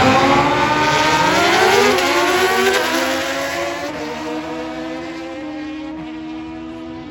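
Drag racing motorcycle accelerating hard down the strip, its engine pitch climbing in steps through the gears, then fading as it pulls away.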